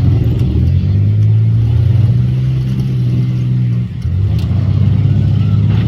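Demolition derby cars' engines running and revving loudly, with a brief dip just before four seconds in.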